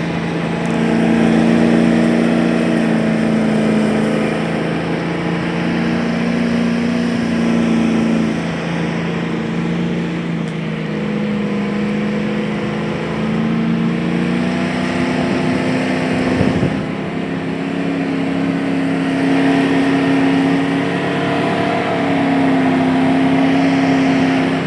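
Land Rover Discovery's 3.9-litre V8 engine under load, its revs rising and falling again and again as the vehicle labours through deep settled snow. A single low thump about two-thirds of the way through.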